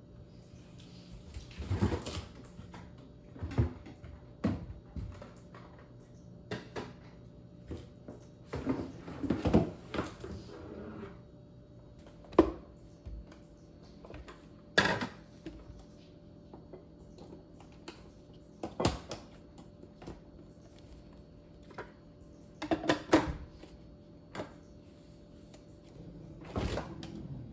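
Household handling sounds in a small room: a dozen or so scattered knocks, clicks and taps of objects being picked up and set down, with a busier patch of rustling and clattering in the middle, over a faint steady hum.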